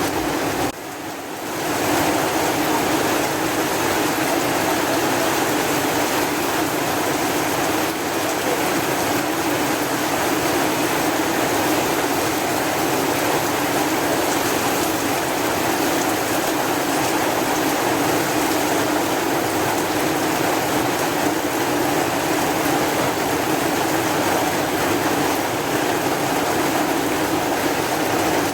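Steady heavy rain, a dense even hiss. It dips briefly about a second in and swells back.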